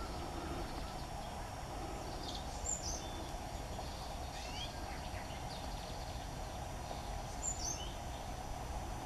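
A few short, high chirps from small songbirds, some falling in pitch, about two and a half seconds in, again near the middle and again near the end, over a steady outdoor background hum and low rumble.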